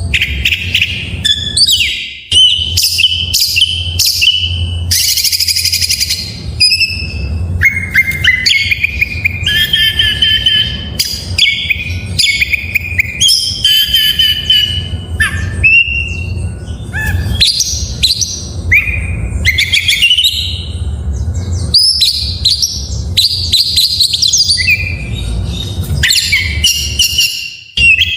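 Oriental magpie-robin (kacer) singing without pause: a fast, varied run of loud whistles, rising and falling glides, trills and chirps, packed with mimicked phrases. A steady low hum runs underneath.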